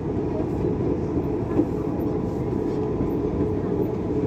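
Dubai Metro train running between stations, heard from inside the carriage: a steady rumble of wheels on rail with a constant hum.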